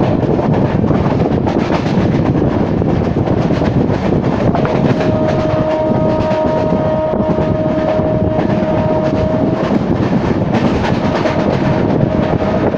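Moving passenger train heard from inside the coach: a loud steady rumble and rushing wind. A steady tone sounds over it for about five seconds from around four seconds in, and comes back briefly near the end.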